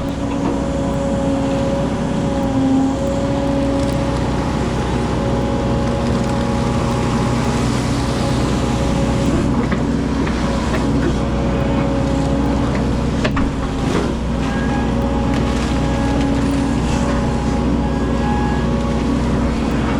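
Hydraulic excavator's diesel engine running steadily under work, with a few short knocks about two-thirds of the way through.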